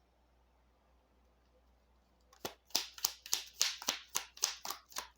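A deck of tarot cards being shuffled by hand: after a short quiet stretch, a quick run of sharp card snaps, about four a second, starts about halfway through.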